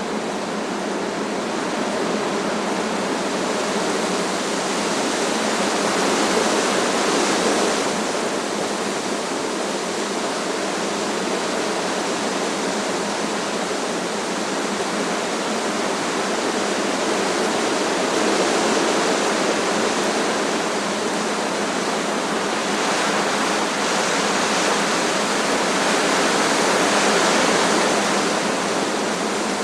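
Strong wind rushing through trees: a steady rushing noise that swells in gusts several times, most strongly near the end.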